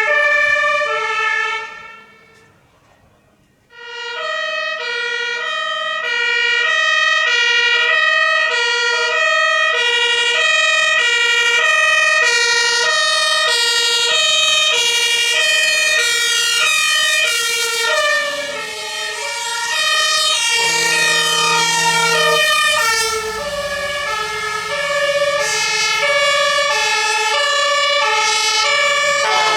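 Two-tone Martinshorn sirens of German fire engines on an emergency run, switching steadily between a high and a low tone. The sound drops out briefly about two seconds in, and from a little past the middle a second siren overlaps out of step with the first.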